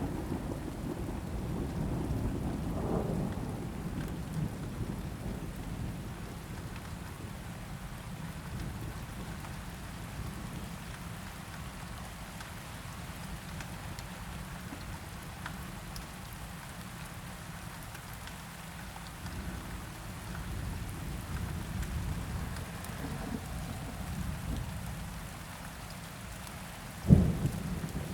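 Steady rain falling with rolling thunder: a low rumble that eases, then builds again. About a second before the end comes one sudden, loud thunder crack.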